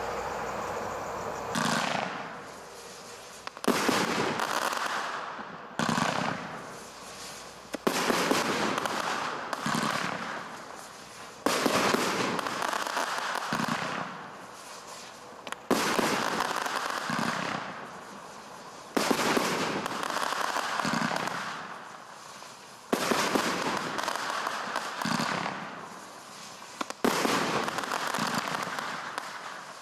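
Display fireworks going off: a sharp bang every two to four seconds, each trailed by a noisy tail that fades over a second or two.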